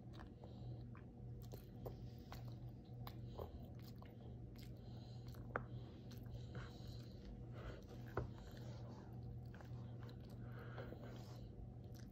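A toddler chewing a mouthful of rice and chicken: soft mouth and lip sounds with scattered light clicks, the sharpest two about five and a half and eight seconds in, over a steady low hum.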